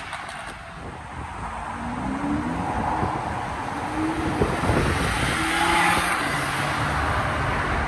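Car engine revving and accelerating, getting louder, its pitch climbing in several short rises.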